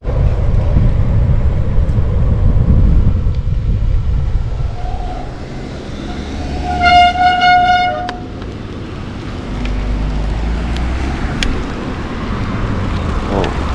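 Wind rumbling on the microphone of a moving bicycle, with a vehicle horn sounding about seven seconds in: a short toot, then a honk held for about a second.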